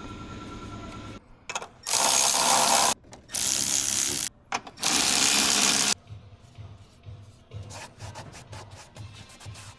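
A handheld power tool runs in three short bursts of about a second each, followed by light clicks and rattles of parts being handled.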